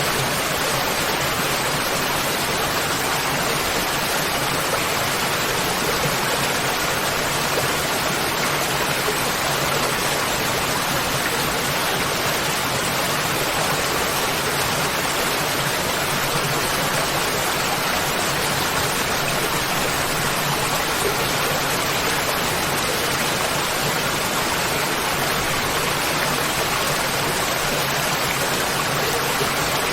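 Waterfall: water pouring and splashing as a steady, unbroken rush.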